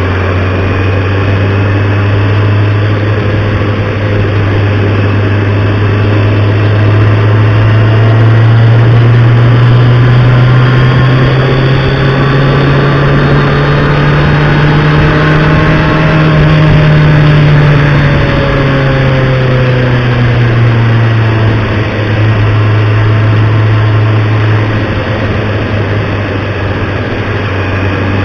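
Motorcycle engine running steadily, its note rising slowly through the middle of the stretch and easing back down.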